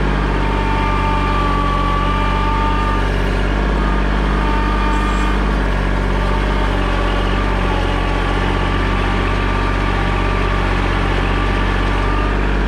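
An engine running steadily at constant speed, with an even low hum and no change in pitch.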